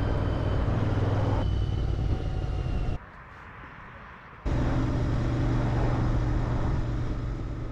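Royal Enfield Interceptor 650's parallel-twin engine running through its stock muffler, in spliced clips. The sound changes abruptly about a second and a half in, drops to a much quieter stretch about 3 s in, and the engine comes back loud about 4.5 s in.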